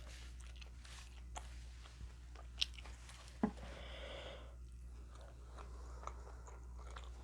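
Close-miked mukbang eating: a person chewing and biting food, with small wet mouth clicks and a couple of sharper crunchy bites a few seconds in.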